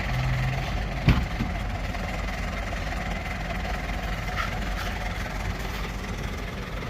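Motor vehicle engine running with a steady low rumble, with a single sharp knock about a second in.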